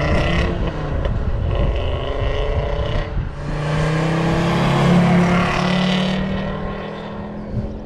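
Audi Cabriolet 2.3E's inline five-cylinder engine as the car drives past, the engine note rising and falling. About three seconds in the sound cuts to another pass-by with a steadier engine note that fades away near the end.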